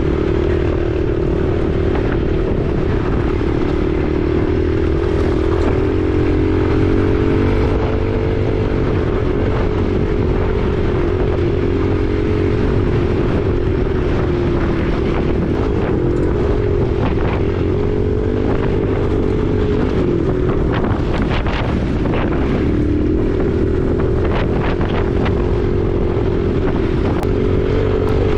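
Husqvarna 501 dirt bike's single-cylinder engine running while riding, its pitch rising and falling gently with the throttle. Heavy wind buffets the unshielded microphone. Scattered clicks and knocks come in the later part.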